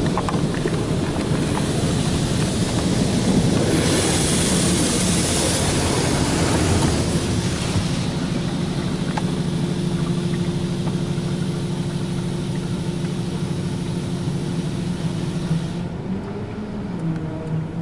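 Automatic car wash equipment heard from inside the car: water spray rushing against the body over a steady machine hum. The spray is strongest a few seconds in and cuts off shortly before the end, leaving the hum.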